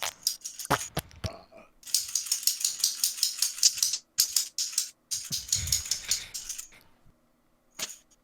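Rapid, typewriter-like clicking and rattling taps on a hard object, made by hand, in fast bursts with a longer run about two seconds in and a few dull thumps. The clatter dies away near the end, leaving one last click.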